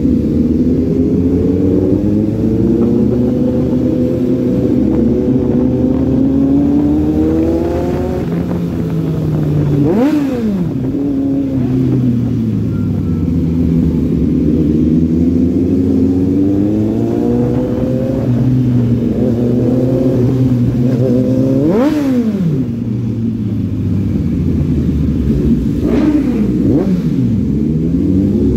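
Motorcycle engine heard from on board while riding, its pitch climbing as it accelerates and dropping back over and over. About ten seconds in and again about two-thirds of the way through, the pitch dips sharply and climbs straight back up.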